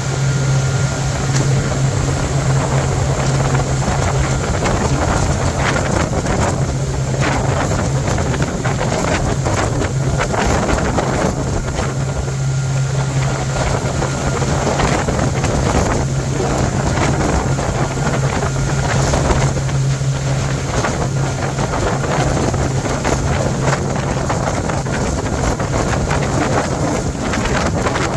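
Bayliner motorboat engine running steadily underway, a constant low drone, with wind buffeting the microphone.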